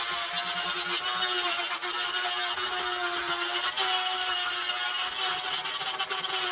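A small electric motor running steadily with a high whine over a rushing hiss, its pitch shifting slightly every second or so.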